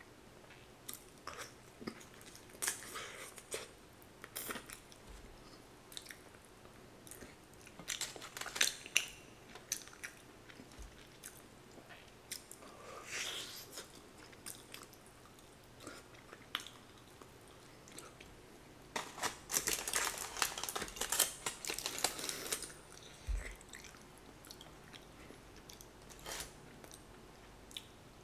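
Close-up chewing and crunching of sauce-coated Korean seasoned (yangnyeom) fried chicken, in several bouts of crisp crackly bites with quieter pauses between; the longest and loudest run of crunching comes about two-thirds of the way through.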